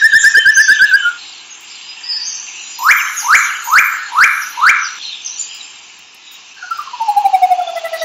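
Recorded calls of scythebills followed by a Curl-crested Manucode. A fast trill ends about a second in. Five quick downslurred notes follow in a row, then near the end a long pulsed call that falls steadily in pitch.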